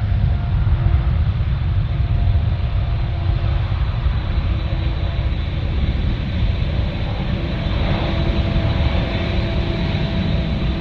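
Boeing 777-200ER's GE90 turbofan engines running with a steady, heavy low rumble and faint steady whining tones above it.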